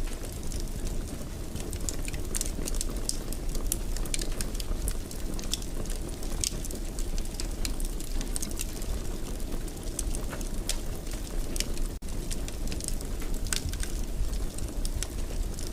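Wood fire crackling in a fireplace: a steady low rumble of burning with frequent irregular sharp pops and snaps, and a momentary dropout about twelve seconds in.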